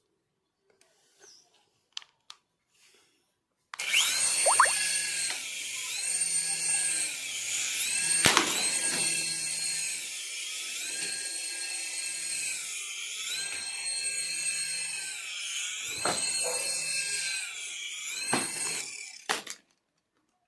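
Small electric motor of a toy RC car whining as it runs, starting about four seconds in; its pitch repeatedly dips and rises again every second or two, and it stops near the end. A few faint clicks come before it starts.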